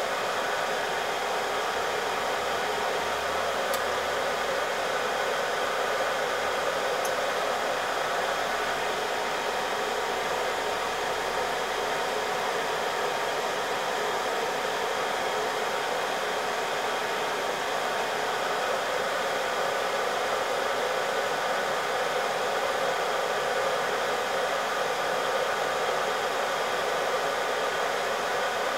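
Hot air rework gun blowing a steady rush of air, heating the laptop's GPU chip for a reflow.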